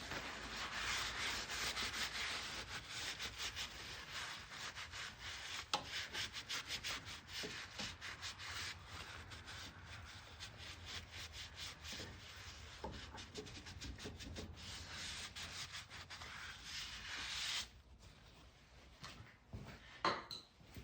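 Scrubbing the bare metal top of a car's strut tower clean by hand, rapid uneven back-and-forth rubbing strokes. The rubbing stops abruptly near the end, followed by a short sharp click.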